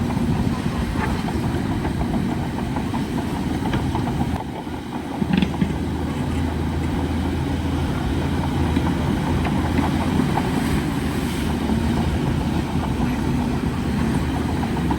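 Bulldozer's diesel engine running steadily with a deep rumble. Its level dips briefly about four and a half seconds in, followed by a few short sharp knocks.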